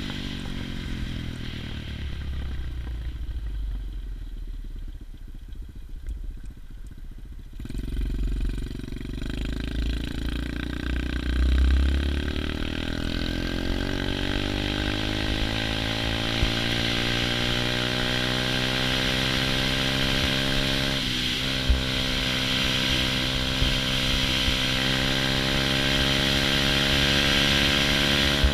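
110cc pit bike's single-cylinder four-stroke engine easing off, its note falling and quietening for several seconds. About seven to eight seconds in it is opened up again: the pitch climbs steadily, then holds high and steady for the rest, with wind rumbling on the microphone underneath.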